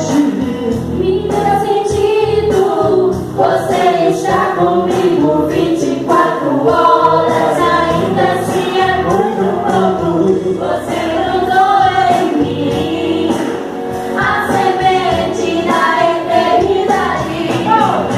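Congregation or church choir singing a gospel hymn with a band accompaniment and a steady beat.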